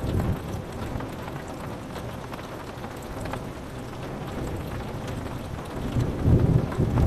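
Steady rain pattering on a window, with thunder rumbling: a short rumble at the start and a louder, longer one near the end.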